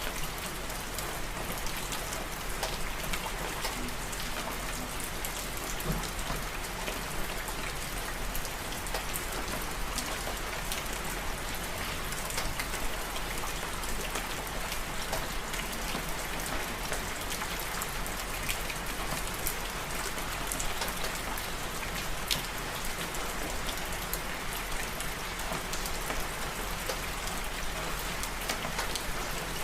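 Steady rain falling on a surface, an even hiss with many small drops ticking through it.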